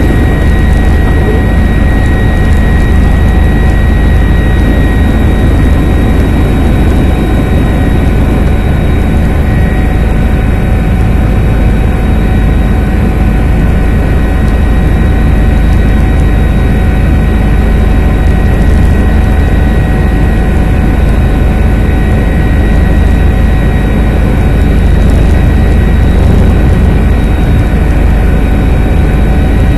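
Helicopter running steadily at a constant loud level, its heavy low rotor and engine rumble overlaid by a steady high-pitched whine.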